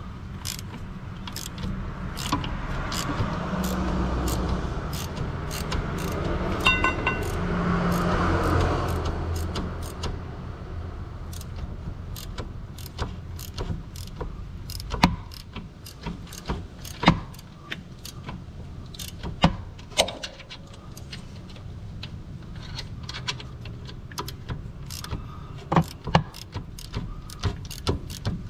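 Scattered metallic clinks and knocks of hand tools and parts being handled, with a louder rushing swell of noise in the first third and a few sharper knocks later on.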